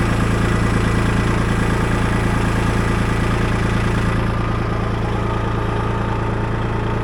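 Kubota L2501 compact tractor's three-cylinder diesel engine running steadily while its front loader holds a heavy log near the tractor's lifting limit.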